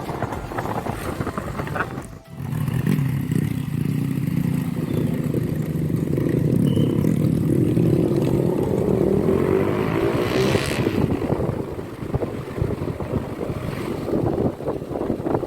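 Motorcycle engine running while riding, with wind and road noise. About ten seconds in, the noise swells briefly.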